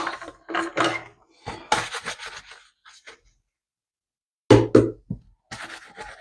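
Kitchen items being wiped dry and handled: cloth rubbing and light clatter, with two sharp knocks about four and a half seconds in as things are set down.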